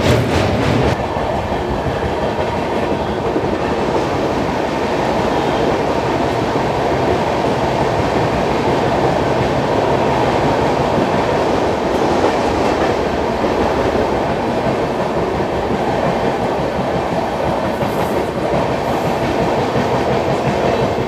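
Passenger express train running along the track: a steady rumble of coach wheels on rail, with a quick run of clacks in the first second.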